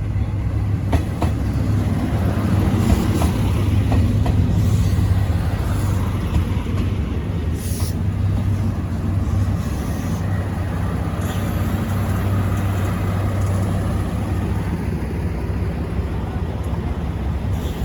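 Steady low rumble and hum of a vehicle running.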